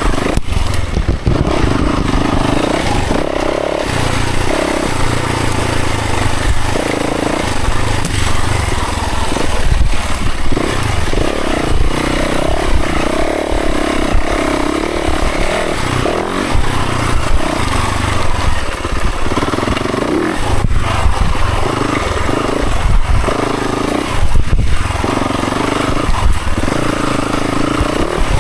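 Dirt bike engine being ridden through tight single-track trail, revving up and down continuously, its pitch rising and falling with throttle and gear changes.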